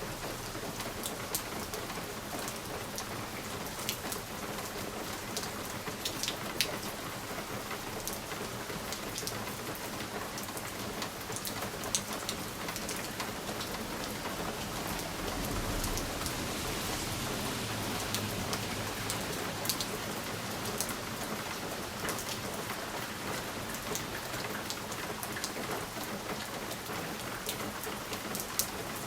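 Steady rain on a window pane, with scattered sharp ticks of single drops hitting the glass. A low rumble swells and fades about halfway through.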